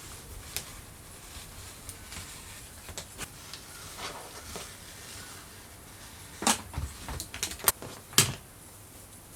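Scattered light clicks and taps from small objects being handled, with a few louder sharp knocks about six and a half to eight seconds in.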